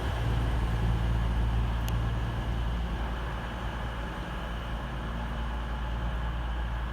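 Class 220 Voyager diesel multiple unit's engines running with a steady low rumble that eases slightly toward the end.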